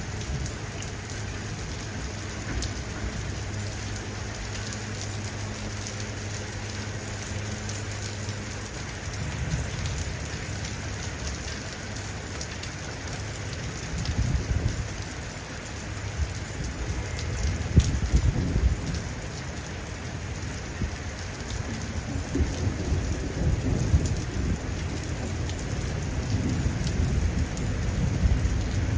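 Steady rain pouring down through a thunderstorm. Low rolls of thunder rumble about a third of the way in and again around the middle, then build toward the end. A low hum under the rain stops about a third of the way in.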